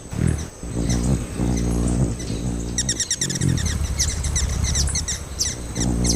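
Hummingbird giving rapid, high squeaky chirps, several a second, starting about halfway through, over low sustained background music.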